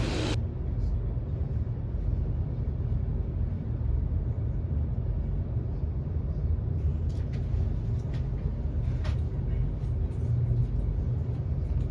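Avanti West Coast Class 390 Pendolino running at speed, heard from on board: a steady low rumble with a few light clicks in the second half.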